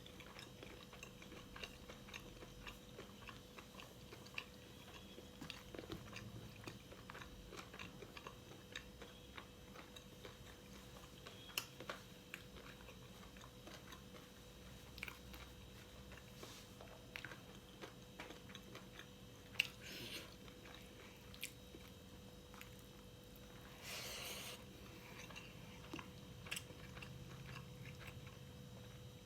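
Close-miked eating: a person chewing and biting pork, with many small, faint crunchy clicks. A brief louder noise comes about 24 seconds in, over a faint steady hum.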